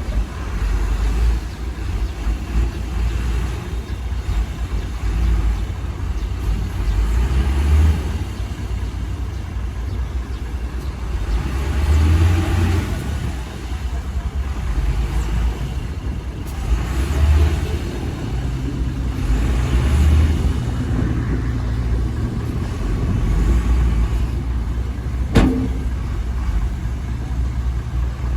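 Heavy diesel earthmoving machinery running, a deep engine rumble that swells and eases every few seconds as the machines work. There is a single sharp knock near the end.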